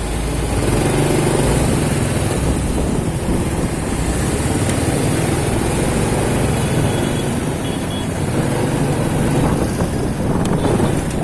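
Motorcycle engine running steadily while riding, mixed with the rumble of surrounding street traffic.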